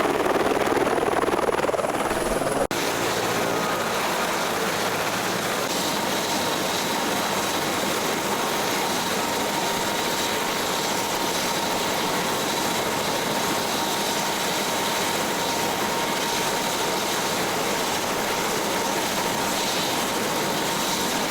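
Helicopter running in flight: a steady rush of rotor and engine noise with a faint steady whine. About two and a half seconds in, the sound changes suddenly to a more even rush.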